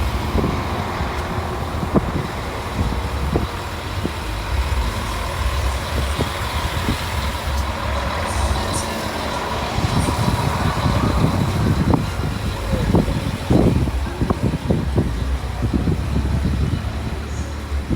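Heavy vehicle engine rumbling steadily, with scattered knocks and bumps that come more often in the second half.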